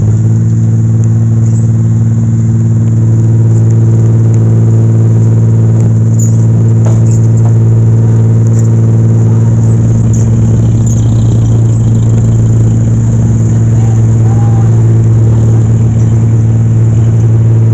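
Heavy dump truck's engine running steadily, a loud, even drone that holds one pitch throughout.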